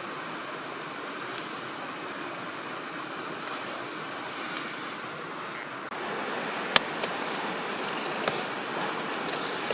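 Wood fire burning in a firewood grill: a steady rushing hiss with occasional sharp crackles and pops, the loudest about seven seconds in. The hiss grows a little louder about six seconds in.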